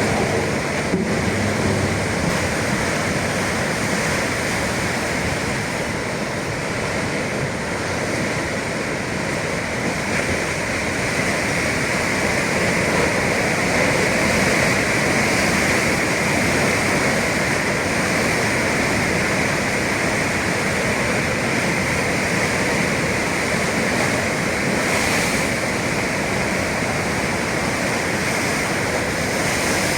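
Atlantic surf: waves breaking and washing in a continuous roar of water, swelling a little about halfway through.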